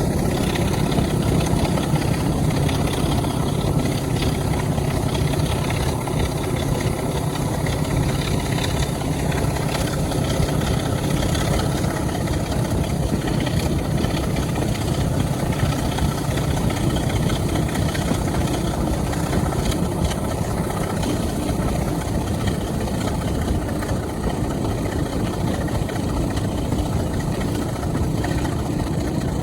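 Heritage diesel locomotive engine running steadily, a low even drone that holds the same pitch throughout.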